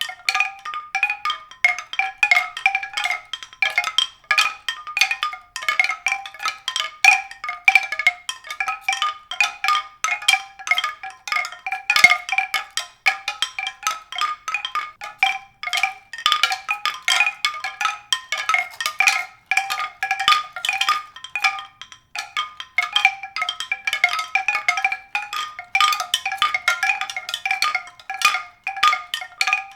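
Struck, pitched percussion: a dense, irregular stream of quick ringing notes on a few high pitches, with no low notes beneath.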